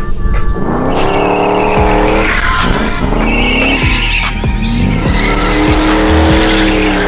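Car engine revving hard, its pitch climbing three times in a row, with tyre squeal; music plays underneath.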